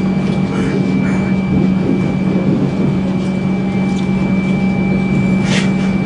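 Steady running rumble and hum of a moving passenger train heard from inside the carriage, with a faint constant whine over it and a short hiss about five and a half seconds in.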